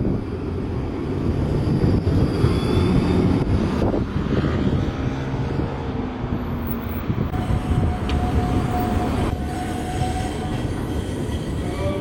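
Alicante light-rail tram running along its track: a steady rumble of wheels and running gear. A thin steady whine joins about seven seconds in.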